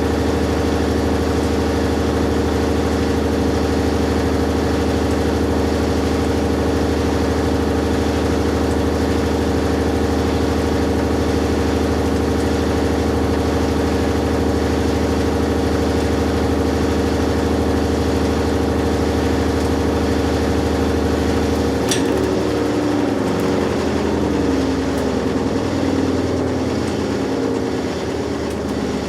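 Matura Autostatic 850 washing machine running steadily with a constant motor hum, most likely during its spin. About three-quarters of the way through there is a click, and the hum's pitch then falls and wavers as the drum slows.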